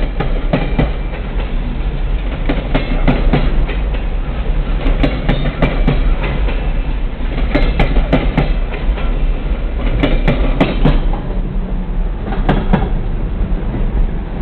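Coal train hopper cars rolling past, a steady low rumble with groups of wheel clicks over the rail joints every two to three seconds.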